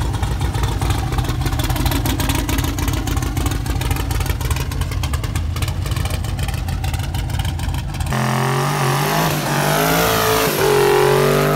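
A big engine idling roughly with irregular, lumpy pulses. About eight seconds in it cuts abruptly to a twin-turbo 5.3-litre V8 revving hard, its pitch wavering up and down as the tyres spin in a burnout.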